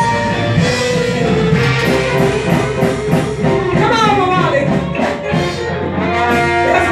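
Live band playing a song, with a melody line that slides up and down in pitch about two thirds of the way through.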